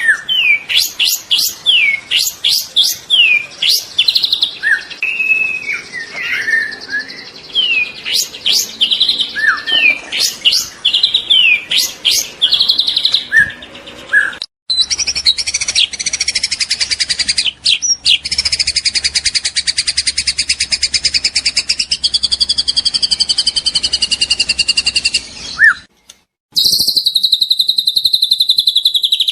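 Young white-rumped shama singing: a run of rapid whistled notes and sliding phrases, then, after an abrupt cut about halfway, a long unbroken fast trill that stops suddenly near the end before another fast trill begins.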